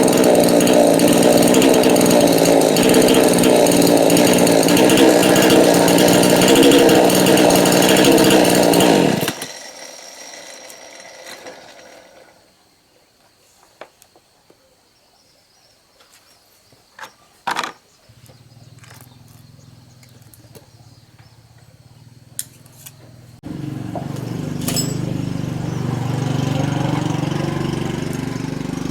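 Repaired two-stroke chainsaw running at high, steady revs, then cutting off abruptly about nine seconds in. A few clicks and one sharp knock follow in the quiet. About two-thirds of the way through, an engine starts again and runs at a much lower, idle-like speed, its pitch rising slowly.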